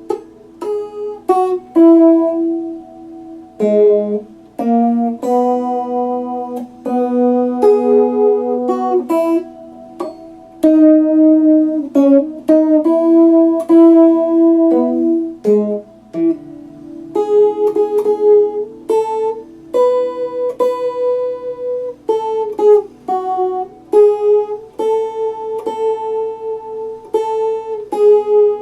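Epiphone Les Paul Special II electric guitar played with a clean tone: single picked notes and chords in a slow melody, each ringing on for a moment.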